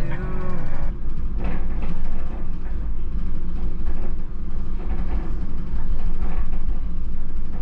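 Channel Tunnel car-shuttle train running, a loud, steady low rumble heard from inside a car parked in its carriage.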